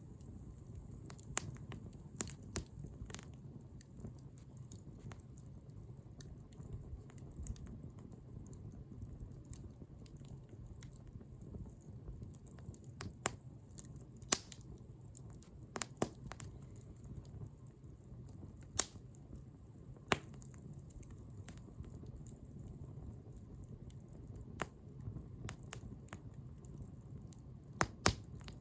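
Wood bonfire burning: a low steady rumble of flames with sharp, irregular pops and crackles every second or two.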